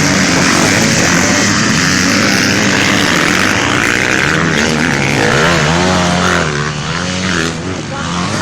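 Motocross bike engines racing past, revving up and down as the riders work the throttle, with the pitch wavering most clearly about five seconds in before the sound eases a little.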